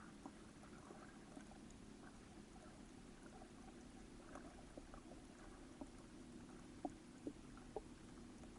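Faint steady low hum with scattered small clicks; a few sharper ticks come near the end.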